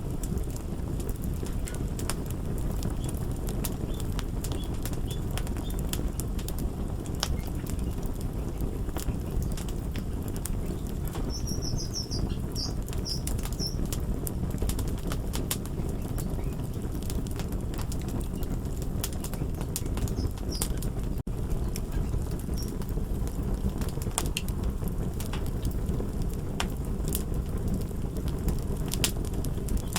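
Crackling fire: a steady low rumble of burning with frequent sharp pops and crackles, and a brief run of high squeaks a little before the middle. The sound cuts out for an instant about two-thirds of the way through.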